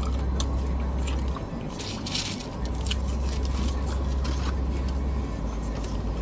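Close-up chewing and mouth smacking on fast food, with short clicks of handling the food and a brief paper-wrapper rustle about two seconds in. Under it a deep steady hum cuts out twice.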